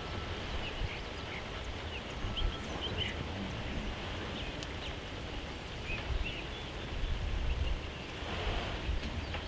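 Steady outdoor background hiss with scattered faint high bird chirps and uneven low rumbles on the microphone. A broader swell of noise comes near the end.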